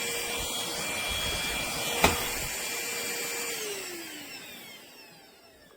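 Trucozie cordless stick vacuum running with a steady motor whine. There is a sharp click about two seconds in. A little over three seconds in the motor winds down, its whine falling in pitch and fading away.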